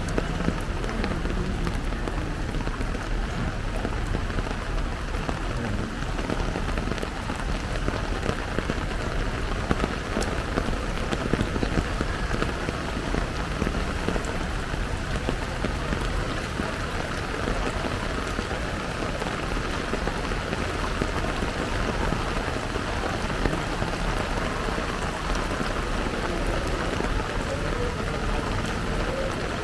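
Heavy rain falling steadily, a dense even hiss of many small drop ticks.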